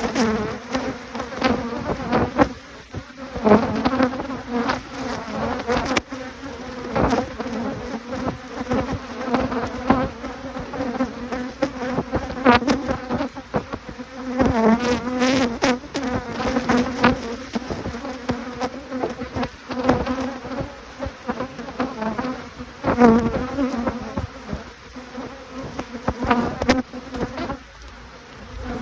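Many honeybees buzzing close by, a steady, slightly wavering hum, broken by frequent short clicks and knocks.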